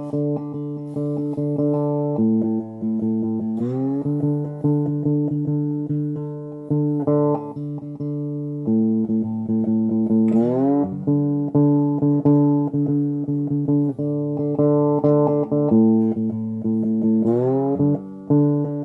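Lap steel guitar playing an instrumental break over a country band track with bass guitar. It holds sustained chords and slides up into a new chord about every seven seconds.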